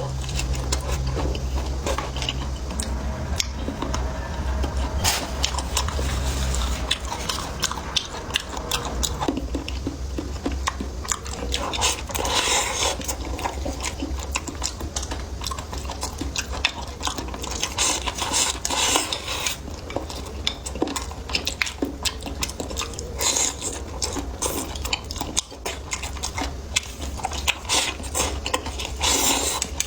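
Close-miked eating: biting and chewing, with crunching moments and the clink of cutlery against dishes. A low hum runs underneath for the first several seconds.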